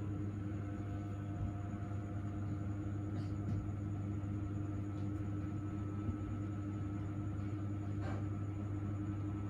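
A steady low machine hum with a few faint clicks about three, five and eight seconds in.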